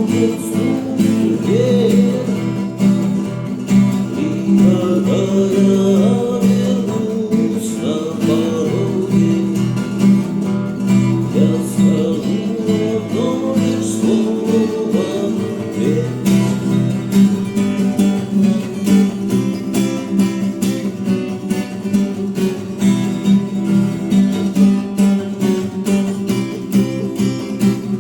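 Guitar strumming chords in a steady rhythm, playing the song's closing instrumental.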